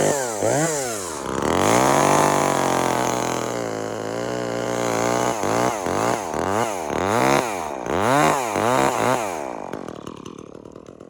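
Two-stroke chainsaw revving up and down again and again as it cuts through dead birch wood, its pitch dragging lower under load through a longer cut about two seconds in. It drops back and fades out about nine and a half seconds in.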